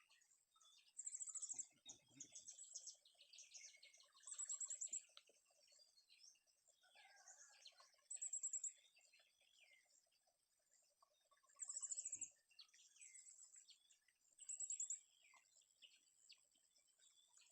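Faint forest birds chirping, with a short, very high trill that repeats about every three to four seconds.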